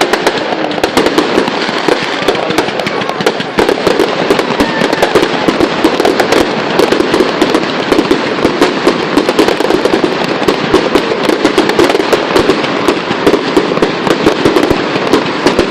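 Fireworks crackling and popping in a dense, continuous barrage of rapid small cracks.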